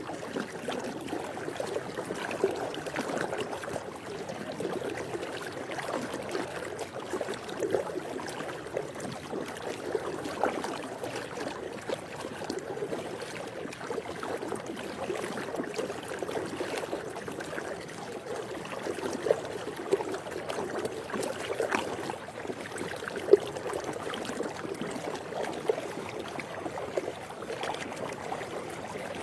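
Swimming-pool water lapping and gently splashing, a steady wash with frequent small irregular splashes.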